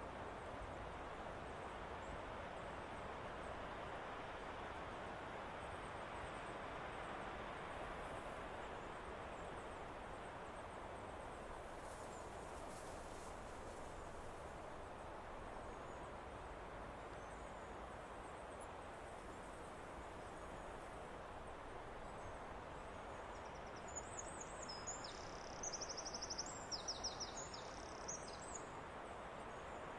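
Steady hiss of wind in the trees. Near the end, a songbird sings a burst of quick, repeated high trilling notes lasting about five seconds.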